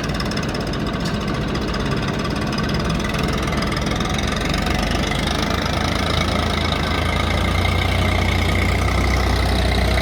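Heavy diesel engine running steadily, its low hum growing a little stronger over the last few seconds.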